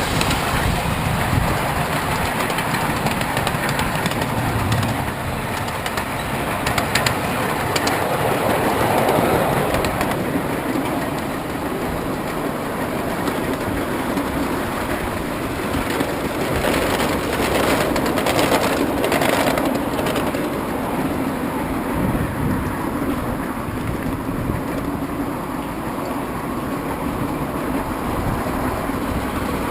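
A steam-hauled excursion train rolling along the track: a steady rumble of the cars, with bunches of sharp clicks from the wheels a few times.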